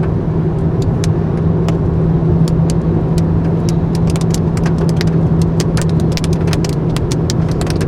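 Large raindrops striking a moving car's windshield and roof as a cloudburst begins, separate sharp taps coming more and more often, heard inside the cabin over the steady hum of road and engine noise.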